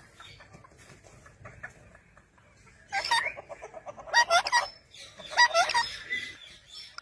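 Parrot calling in three short bursts of squawking, bending calls, about three, four and five and a half seconds in.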